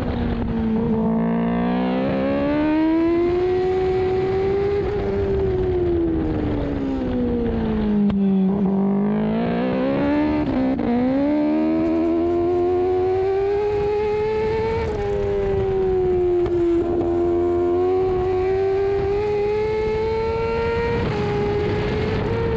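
Kawasaki ZX-10RR World Superbike's inline-four engine at racing revs, heard from on board the bike. Its pitch climbs under throttle and sinks on the brakes into corners, with quick dips at the gear changes.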